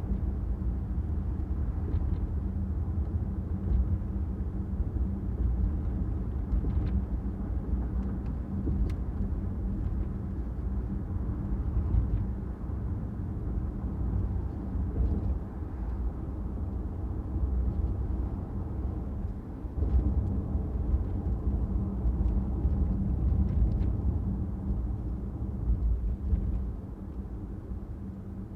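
A car driving: a steady low rumble of engine and tyre noise with a faint steady hum, easing off a little near the end.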